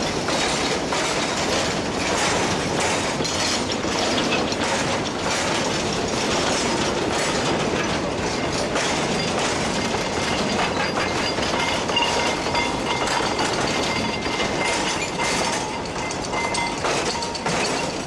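Narrow-gauge coal train rolling steadily, wheels clicking over the rail joints, with a faint thin squeal in the second half.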